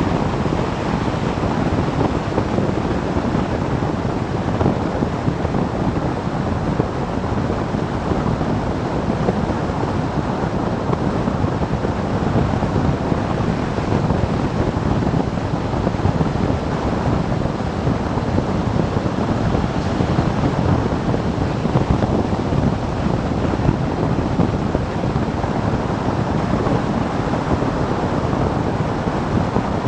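Steady wind rush over the microphone of a motorcycle riding at speed, with road and engine noise blended into it.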